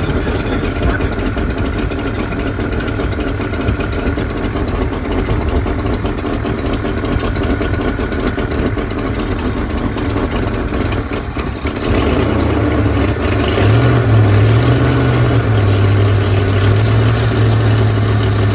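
1970 Mercury Cougar Eliminator's 428 Cobra Jet V8 running rough at idle while its timing is being set. About twelve seconds in the revs come up and it holds a higher, louder speed.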